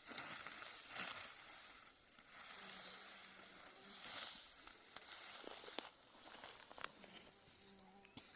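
Dry wheat stalks rustling and swishing in repeated strokes at an uneven pace as they are cut or pulled by hand.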